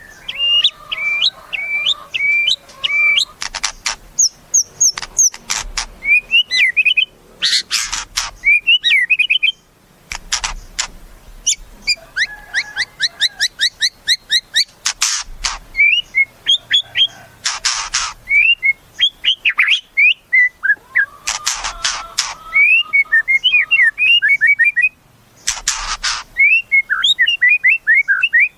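White-rumped shama (murai batu) singing a varied song. Clear whistled phrases and fast runs of short rising chirps are broken every few seconds by loud, harsh rasping notes.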